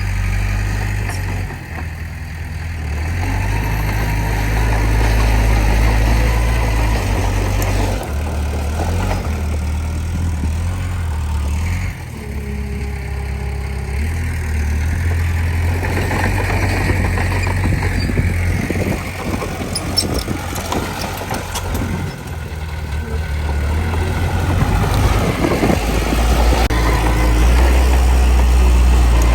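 Diesel engine of earthmoving machinery, a bulldozer or dump truck, running under changing load. Its pitch and level rise and fall every few seconds.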